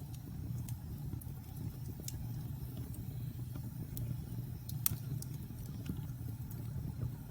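Wood fire burning in a fireplace: a steady low rumble of flames with irregular sharp crackles and pops, the loudest pop about five seconds in.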